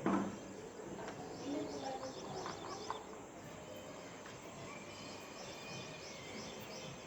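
Small birds chirping, with a quick run of short high notes a couple of seconds in, over steady outdoor background noise. A brief thump comes right at the start.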